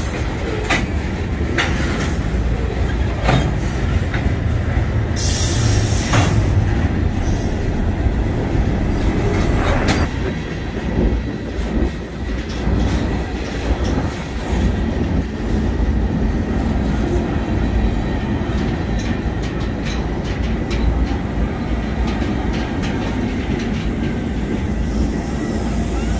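Canadian National freight cars rolling past close by: a steady heavy rumble with wheels clacking over rail joints. Short high-pitched wheel squeals come in the first ten seconds.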